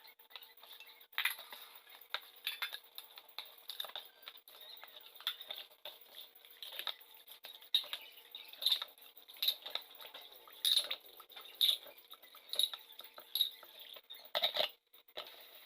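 Irregular light clinks, taps and scrapes of small hard objects being handled and moved about, with a louder one about every second.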